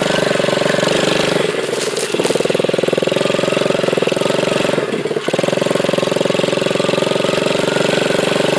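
Dirt bike engine running at steady revs, its note dipping briefly twice, about one and a half seconds in and again about five seconds in.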